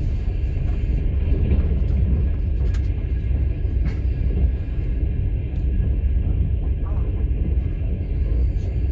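Steady low rumble of a moving passenger train heard from inside a sleeping car, with a few faint clicks over it.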